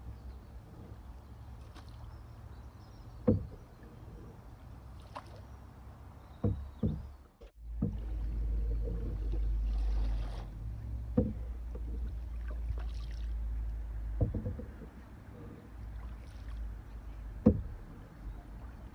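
Canoe being paddled, with sharp knocks of the paddle against the hull every few seconds over a low rumble of wind on the microphone.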